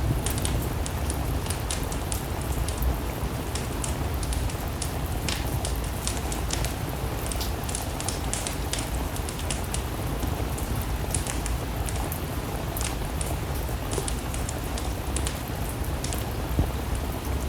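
Steady rain mixed with a crackling wood fire: an even rushing hiss with a low rumble, peppered with many short, sharp pops and clicks at irregular intervals.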